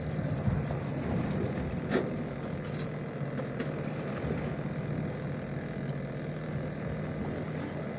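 Steady low mechanical hum of a fishing boat's machinery, over wind and water noise, with a single knock about two seconds in.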